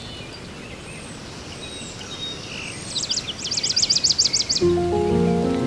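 Birds singing over a steady hiss of rain: a few short chirps, then a fast trill of rapid repeated notes about three seconds in. Soft music with long held notes comes in near the end.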